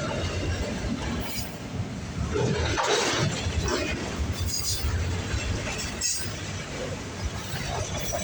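Loaded auto rack freight train rolling past: a steady rumble of wheels on rail with rattles and metallic clanks from the cars, the loudest about three seconds in.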